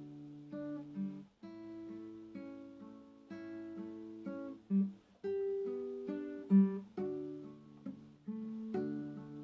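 Acoustic guitar playing slow, gentle chords and picked notes, each ringing on before the next, with a couple of louder bass notes in the middle.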